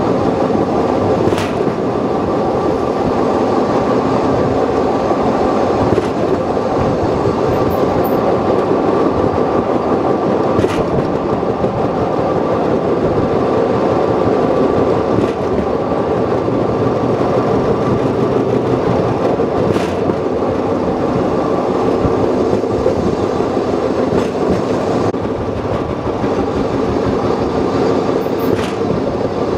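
Open-air trolley train running along the rails at a steady pace, with a constant rumble and hum. A sharp click about every four to five seconds, as the wheels pass the rail joints.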